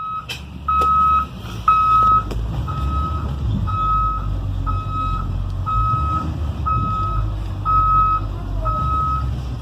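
School bus backup alarm beeping about once a second while the bus reverses, over the low rumble of its engine.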